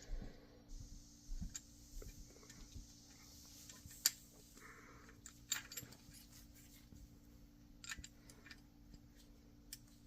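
Faint, scattered metallic clicks and clinks of hand tools, a feeler gauge and an L wrench, working the valve adjusters while the valve clearance is set; the sharpest click comes about four seconds in.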